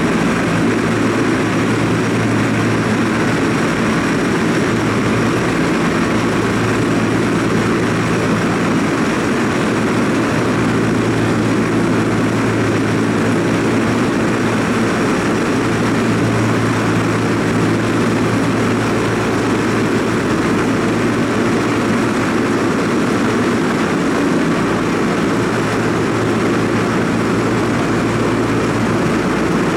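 Tram running with a steady mechanical drone and a low hum that does not change.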